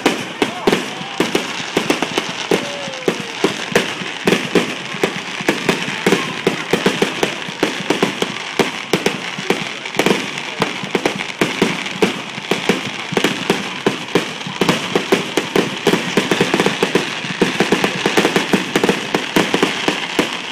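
Fireworks: aerial shells bursting in a rapid, continuous barrage of bangs, several a second, over a steady crackle.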